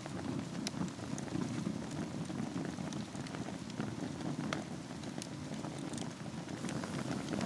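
Wood fire burning in a fireplace: a steady low rush of flames with scattered sharp crackles and pops.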